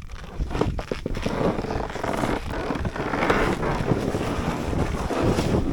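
Wind rushing over the microphone, with irregular short knocks and scrapes through it.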